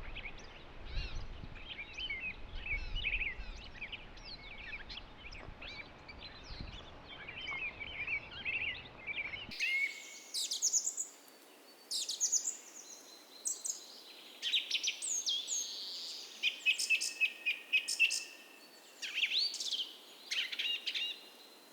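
Dawn chorus of several songbirds chirping and singing over one another. About halfway through, the sound changes abruptly to closer, louder, clearer songs with trills and repeated notes, and the low rumble under the first half drops out.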